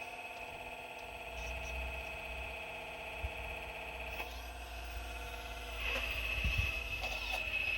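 Excavator running with a steady high-pitched whine over a low rumble; the whine grows louder about six seconds in.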